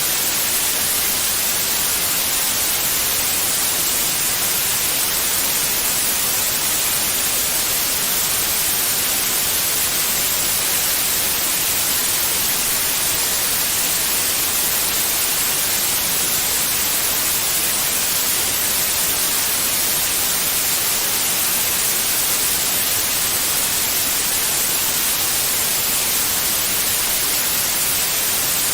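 Steady white noise, an even hiss weighted toward the high frequencies with no change in level, played to soothe a baby to sleep.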